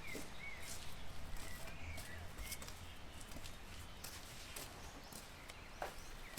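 Small birds chirping: short, curling chirps every second or so, with scattered light clicks and a faint low hum underneath.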